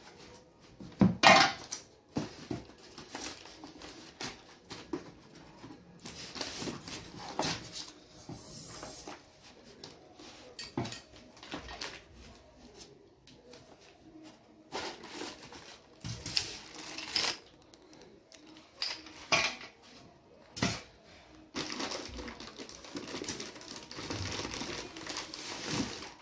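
Irregular clicks, knocks and rustling of table-fan parts and packaging being handled, with no fan motor running.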